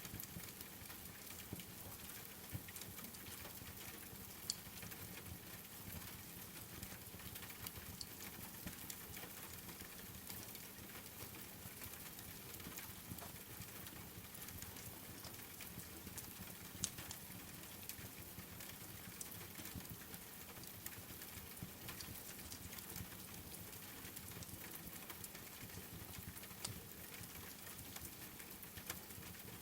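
Steady rain hiss mixed with a wood fire crackling: a constant patter of small clicks, with a few sharper pops from the fire.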